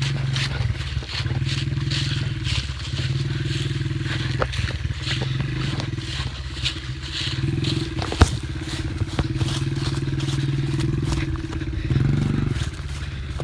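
Dirt bike engine running at fairly even revs, with many short clicks and crackles over it and one sharp knock about eight seconds in.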